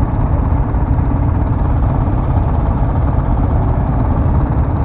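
Motorcycle riding noise picked up by the rider's onboard microphone: a steady low rumble of engine and wind.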